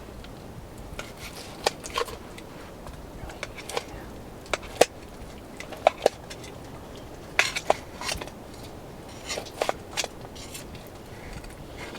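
Cutlery clinking and scraping against dishes while people eat: irregular sharp clicks, some with a short ringing tone.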